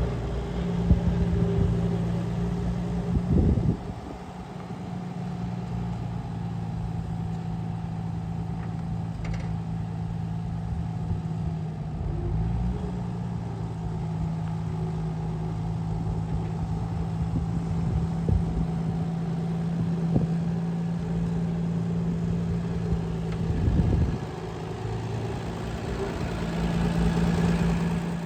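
Engine of a 1951 Wards HR tractor running steadily, with brief changes in engine speed about three and a half seconds in, about twelve seconds in, and again near the end.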